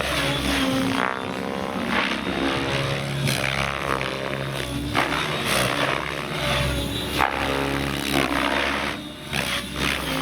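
Electric Trex 700X model helicopter flying 3D aerobatics: its rotor blades and electric motor whine, the pitch swinging up and down as it manoeuvres.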